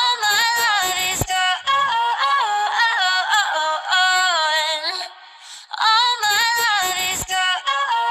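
Isolated female lead vocal with no backing track, singing long sliding melismatic phrases with vibrato. It pauses briefly for breath about five seconds in.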